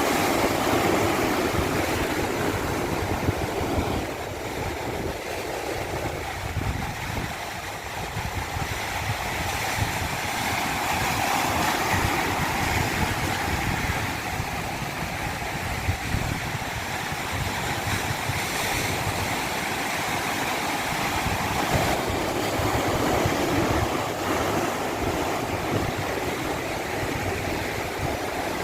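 Rushing water: a steady wash of water noise that slowly swells and eases in loudness.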